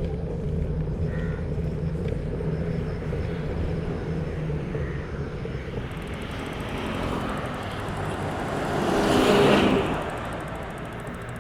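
A motor vehicle's engine running steadily, then swelling as it passes close by about nine seconds in and fading away.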